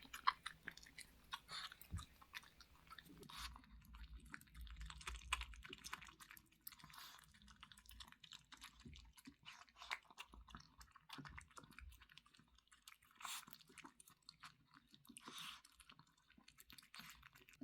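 A dog eating a home-cooked meal: faint, irregular chewing and crunching with small clicks of bites.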